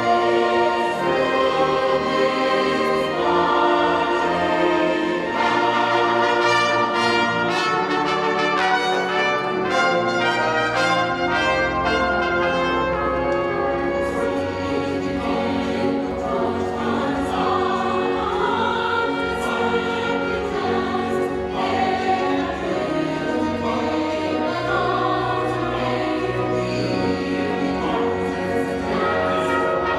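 A choir singing with orchestral accompaniment, brass among the instruments.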